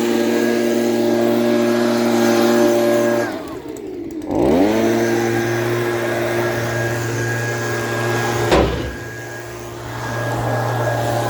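Engine running steadily. About three seconds in, its pitch sags sharply as if under load, then climbs back up to speed. Later there is a single sharp knock and a short dip before it runs on.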